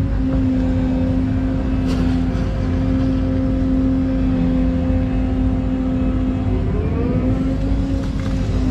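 Excavator's diesel engine running steadily; its pitch sags briefly and climbs back up about seven seconds in.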